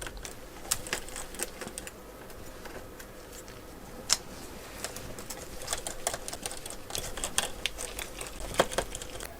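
Scattered light clicks and taps of small repair tools working on the opened iPad Pro's internals, with a couple of sharper clicks about four seconds in and near the end, over a faint steady hum.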